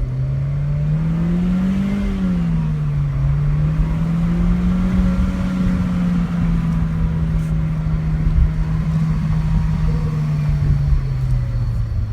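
Chevy Sonic RS 1.4-litre turbocharged four-cylinder accelerating with manual-mode gear changes. The revs climb, fall at an upshift about two seconds in, rise again and hold steady, then ease off near the end.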